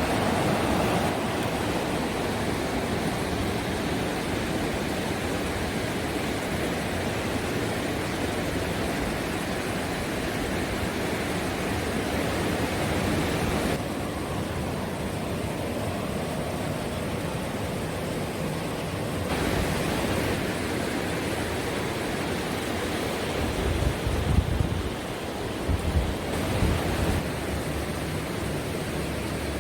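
Steady rushing of river water through the gorge. The noise changes abruptly twice partway through, and a few low rumbles come near the end.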